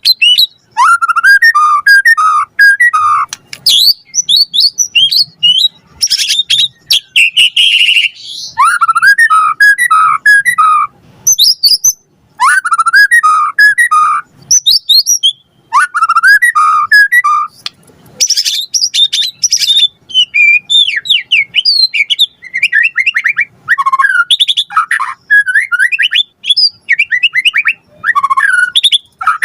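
White-rumped shama (murai batu) singing loudly in phrases a few seconds long with short pauses between them. The phrases mix runs of repeated whistled notes with fast, high-pitched chattering trills, a varied song full of mimicked phrases ('full isian').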